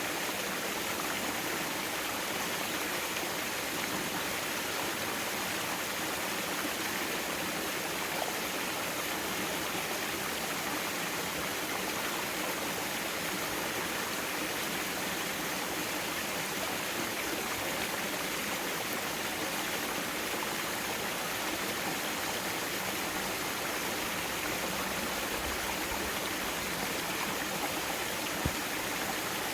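Mountain valley stream water flowing steadily.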